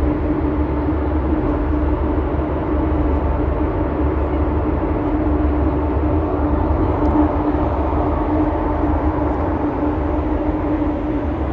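Steady engine drone of the ferry Aline Sitoé Diatta, a deep rumble with a constant hum running through it.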